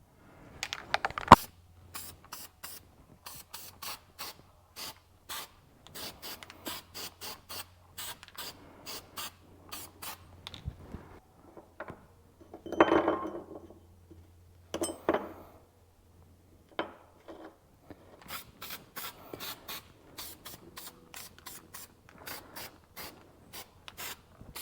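Irregular clicking and scraping from hand work on small sheet-metal rust-repair pieces being cleaned up, with a short louder rub about halfway through.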